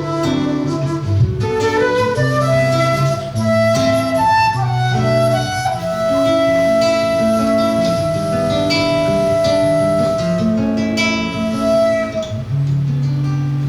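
Live flute and seven-string acoustic guitar duet in 6/8 time: the guitar plucks a running accompaniment while the flute holds one long note from about two seconds in until near the end.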